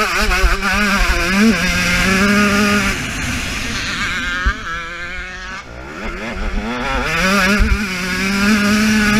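KTM 125 two-stroke motocross engine under hard throttle: it revs up sharply at the start and holds high, backs off for a few seconds around the middle, then climbs back up and pulls high again near the end.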